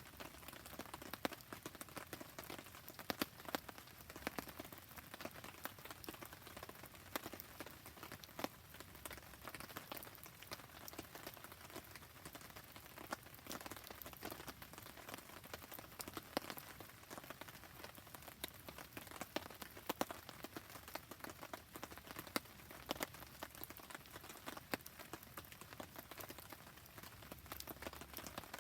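Rain falling steadily, a soft even patter with many sharp drop ticks scattered through it.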